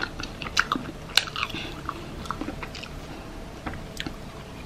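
A person chewing marshmallows close to the microphone. Irregular small mouth clicks and smacks, more frequent in the first two seconds and sparser after.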